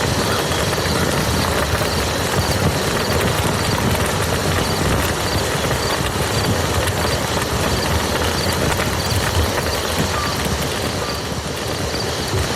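Steady, dense rain falling on a muddy field.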